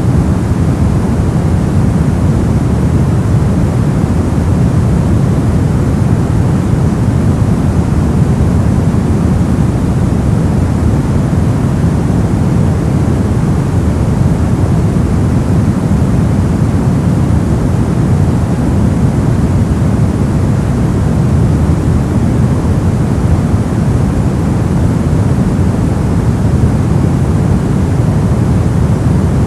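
Steady brown noise: an even, deep rumbling hiss with its weight in the bass and little treble, unchanging throughout.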